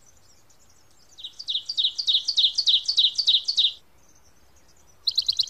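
Birdsong: a bird sings a fast series of repeated high chirps, about five a second, for a couple of seconds, pauses, and starts a second, quicker run near the end. Fainter chirps come from other birds.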